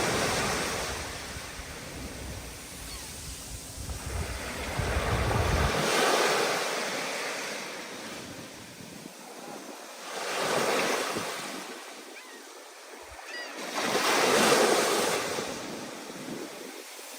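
Rough ocean surf: waves break and wash in, swelling and easing about every four seconds. Wind rumbles on the microphone through the first few seconds.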